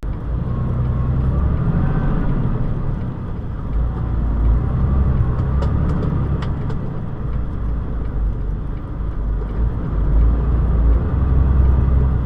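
A vehicle's engine and road noise, a steady low rumble while driving, with a few faint clicks about halfway through.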